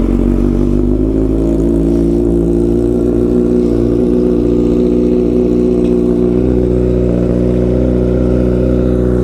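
Kawasaki Z900's inline-four engine idling steadily just after a cold start, loud through an Akrapovic Shorty titanium full-system exhaust.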